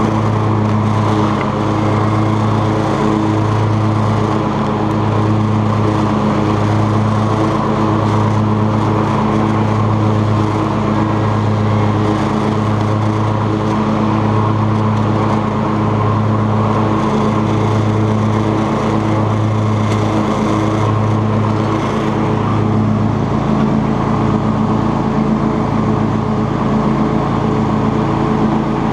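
Cub Cadet XT2 riding lawn tractor running steadily under load while mowing tall grass with its 42-inch deck. Its low engine hum swells and fades about once a second.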